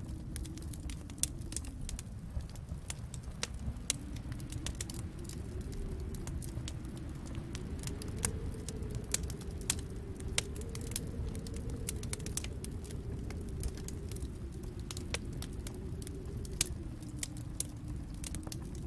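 Wood fire in a fireplace crackling: many sharp, irregular pops and snaps over a steady low rumble.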